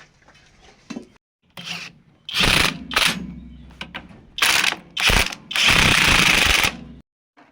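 A power tool run in about five short loud bursts, the last and longest lasting about a second.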